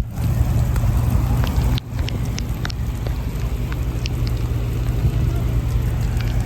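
Rain falling, with scattered drops ticking over a steady low rumble. The sound breaks off briefly just under two seconds in.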